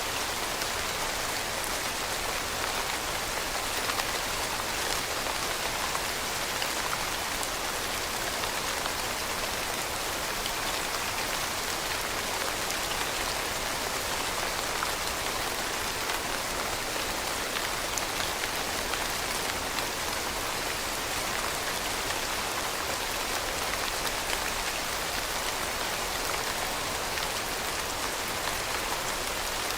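Steady rainfall, an even hiss of many drops with fine patter, constant in level with no thunder.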